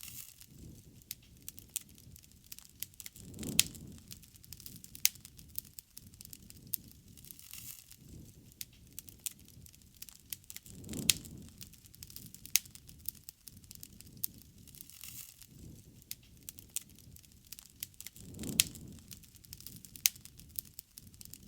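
Wood bonfire crackling, with frequent sharp pops and snaps over a low rushing sound of the flames that swells up three times, every seven or eight seconds.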